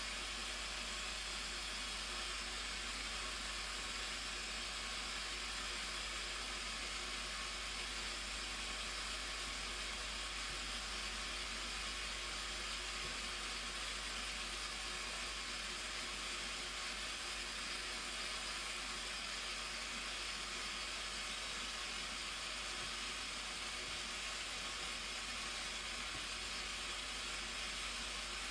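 Steady, unbroken rush of falling water from the Blue Nile Falls.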